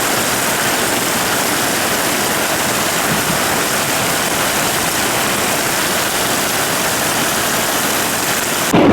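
Steady, even rushing of heavy rain falling.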